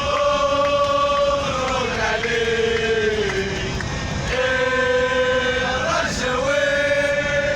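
Group of male football supporters chanting a terrace song in unison, holding long drawn-out notes, with a slowly falling phrase in the middle.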